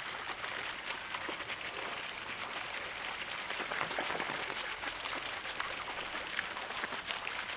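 Running water splashing and trickling steadily, a dense patter of small drops.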